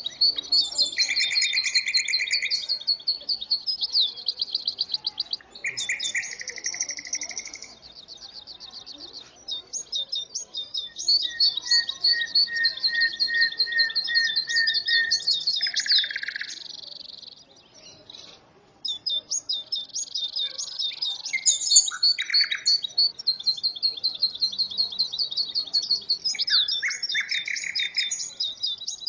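European goldfinch singing a long, rapid twittering song of quick high notes mixed with buzzy trills, pausing briefly twice.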